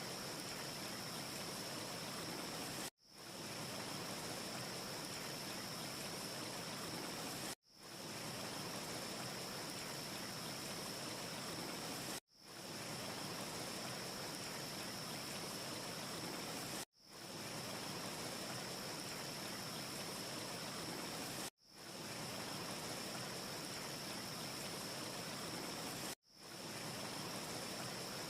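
Steady, even rushing hiss from a looped ambience track, with no separate crackles. It cuts out sharply about every four and a half seconds, six times, and fades back in each time over about half a second.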